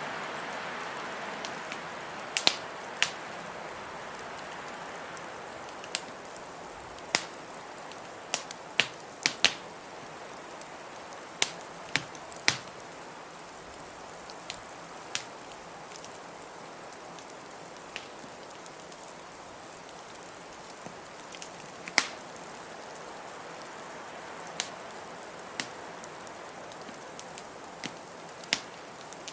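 Wood fire crackling in a fireplace, with sharp, irregular pops, over the steady hiss of blizzard wind that swells and eases.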